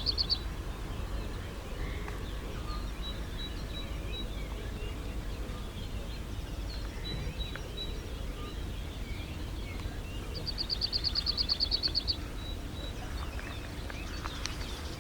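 A small bird's fast, high trill, about nine notes a second for a second and a half, comes about ten seconds in. Another trill ends just at the start. Faint single high notes sound in between, over a low steady background rumble.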